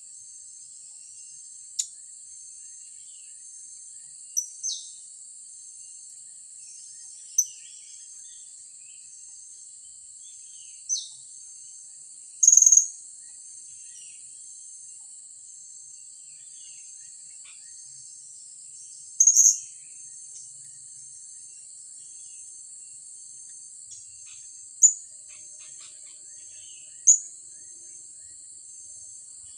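Blue-crowned hanging parrots giving short, sharp, high-pitched calls, about nine of them a few seconds apart, two a little longer and louder than the rest. Behind them runs a steady, high insect drone.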